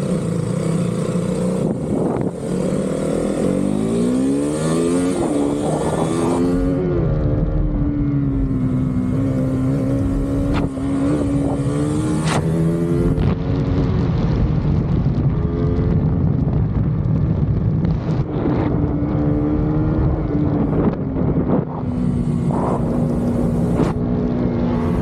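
Motorcycle engine accelerating hard, its pitch climbing over a few seconds, then running steadily at high cruising speed and easing off briefly a couple of times. Wind rushes across the microphone throughout.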